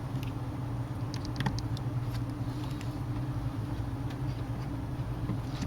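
Steady low electrical hum in the room, with a few faint light clicks of a small screwdriver and tiny screws being worked on a tablet's internals.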